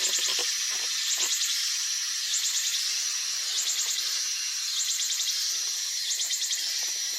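Insects calling in a steady high-pitched chorus. A rapid pulsing phrase of about half a second repeats roughly once every second over a continuous hum. A few soft knocks or rustles come in the first second or so.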